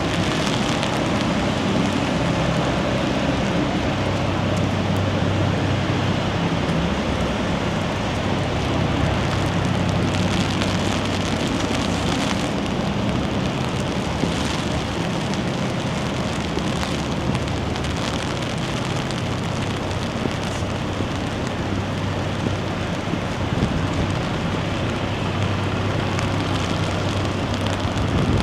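Steady rain falling on hard surfaces, a constant hiss with a low, steady rumble underneath.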